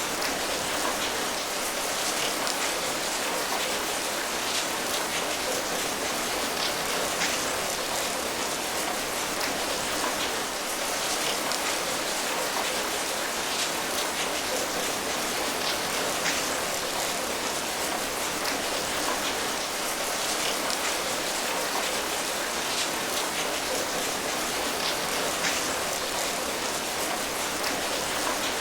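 Steady rain falling, a dense even patter of drops striking a surface.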